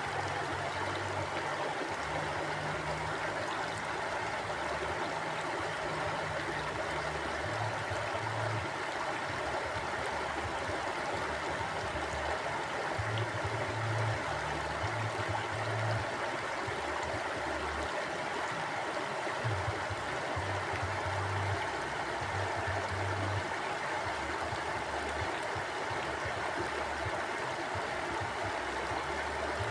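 A river flowing: a steady, even rush of water, with a low rumble that swells and fades every few seconds.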